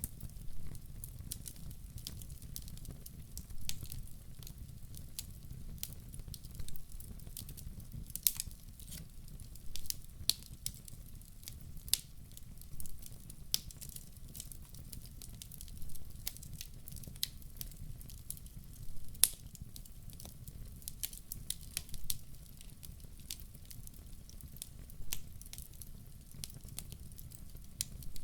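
Wood fire burning with a low steady rumble and frequent irregular crackles and sharp pops.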